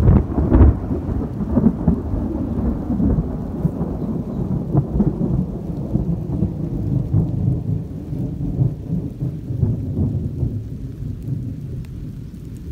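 Thunderstorm under a rotating mesocyclone: a loud, continuous low rumble that keeps swelling and easing, strongest in the first second.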